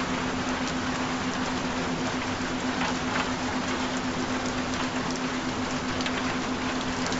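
Recorded rain, a steady hiss with scattered drop ticks, over a steady low tone that holds one pitch throughout.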